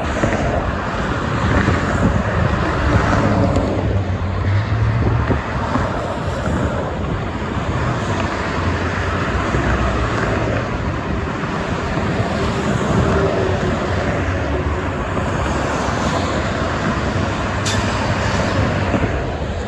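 Expressway traffic with heavy trucks and cars passing: a continuous rush of tyre and engine noise, with a low engine rumble swelling and fading several times as vehicles go by.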